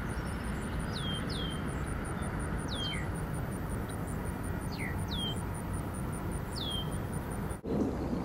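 A songbird calling in short, high, downward-sliding whistles, mostly in pairs, about every two seconds, over a steady low outdoor rumble.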